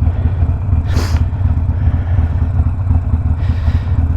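Harley-Davidson Sportster Iron 1200's air-cooled V-twin, stage-one tuned with a Two Brothers 2-into-1 exhaust, running with a steady, deep rumble. A short hiss comes through about a second in.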